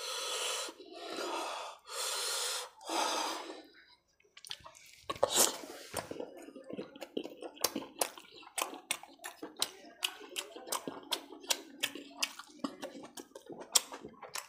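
Four long breathy sounds of about a second each from a man eating spicy chicken curry with roti by hand, then close-up open-mouth chewing with wet smacking clicks, a few a second.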